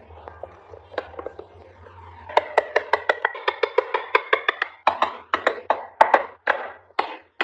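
A quick run of sharp wooden taps that starts about two seconds in and gets louder, each strike ringing briefly.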